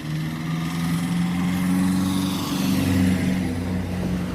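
A motor vehicle driving past close by: a steady engine hum with tyre hiss that grows louder to a peak about three seconds in, then starts to fade.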